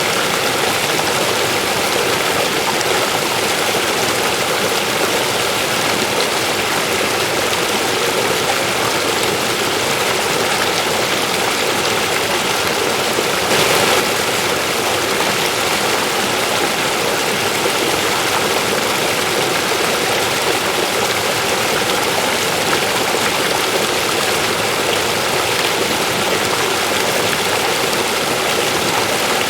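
River water rushing steadily over rocks, with one brief louder surge about halfway through.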